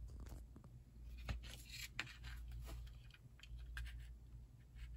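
Sunglasses being handled and turned in the hands: scattered light clicks and short scraping rustles over a low steady hum.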